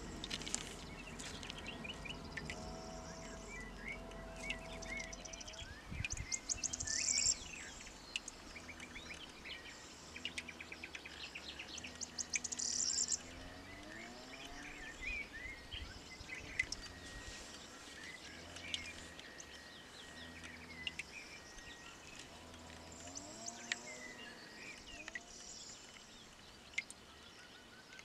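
Birds singing and chirping in the open, with two brief, high, rapid trills, about a quarter of the way and halfway through.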